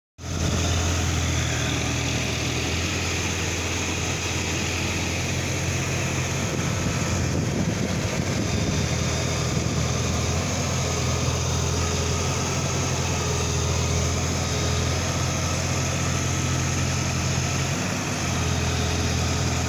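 A machine's motor running steadily, with a strong low hum under an even whirring noise.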